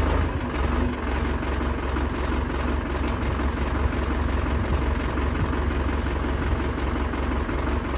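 YTO Agri Master 854P tractor's diesel engine running steadily.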